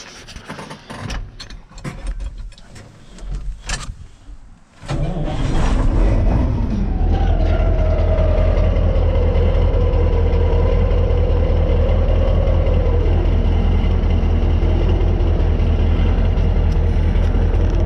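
Kirovets K-700A tractor's diesel engine, just rebuilt with a new piston group, being started: a few seconds of scattered clicks and knocks, then about five seconds in the engine catches and settles into a loud, steady run, with a whine that falls in pitch and then holds.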